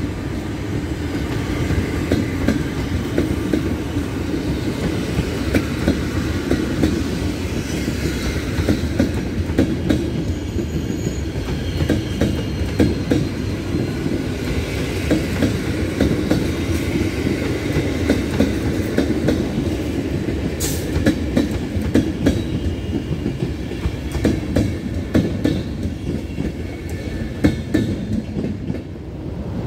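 Passenger coaches rolling past on the track: a steady rumble with wheels clacking over rail joints and points, and a little wheel squeal. The rumble dips near the end as the last coach clears.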